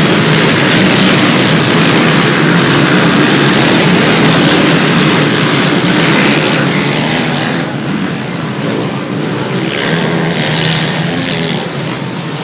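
Many dirt bikes running at high throttle together as a start row pulls away, a dense engine din that thins and drops in level about seven to eight seconds in, leaving fainter engines with a few revving surges.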